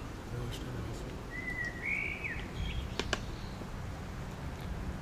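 A songbird calls once with a short run of whistled, rising and falling notes about a second and a half in, over a steady low outdoor rumble. A second later come two sharp clicks in quick succession.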